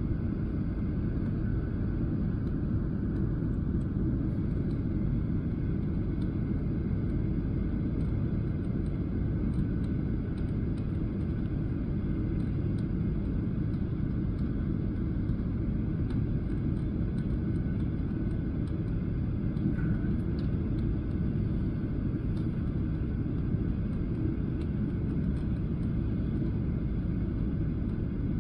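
Steady low rumble inside the cabin of a Boeing 737-800 jet airliner, from the engines and the airflow, holding at an even level.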